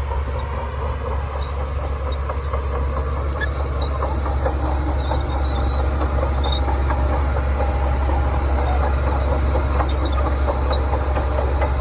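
Shantui DH17C2 crawler bulldozer's diesel engine running steadily under load with a deep drone and a light, irregular rattling clatter over it; it grows slightly louder partway through.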